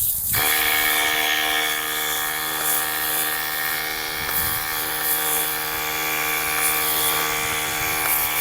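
Simoniz cordless foam cannon's electric compressor kicking in just after the start and running steadily with a motor whine, under the hiss of snow foam spraying out. It cycles on to keep the canister at spraying pressure.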